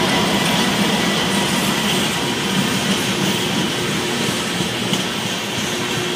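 A train rolling past, the steady noise of its wheels on the rails slowly getting quieter.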